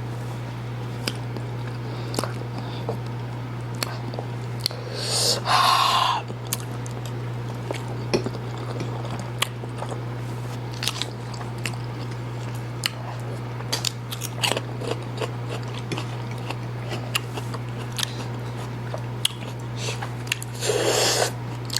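Close-miked mouth sounds of people eating spicy instant noodles: many short wet clicks and smacks of chewing, with a louder, longer sound about five seconds in and another near the end. A steady low hum runs underneath.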